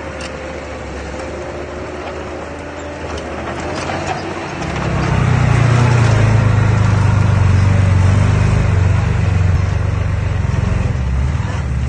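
Heavy machinery's diesel engine running, turning much louder, with a strong low drone, about four and a half seconds in.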